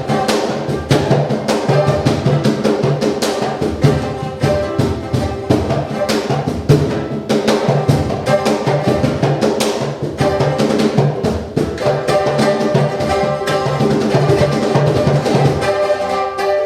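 Freely improvised live music: congas struck in a dense, quick pattern over a steady low note and mid-range pitched tones from the other instruments.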